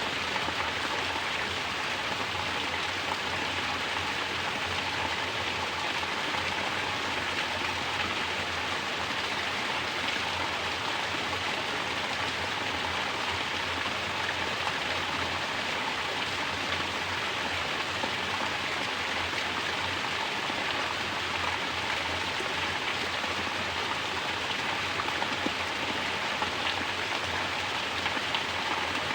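Mountain spring water falling steadily as a natural shower, an even, continuous splashing.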